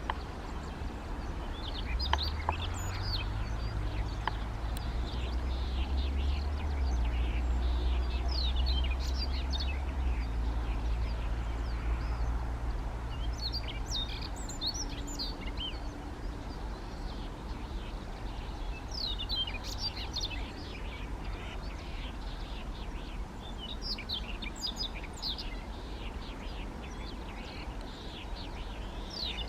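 Siberian rubythroat singing: phrases of quick, varied, high warbling notes, repeated every few seconds with short pauses between. A low rumble sits underneath during the first half.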